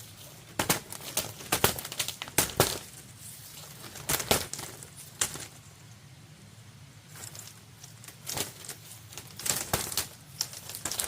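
Irregular crackling and rustling from something being handled, coming in short clusters of sharp snaps with quieter stretches between, loudest in the first half and again near the end.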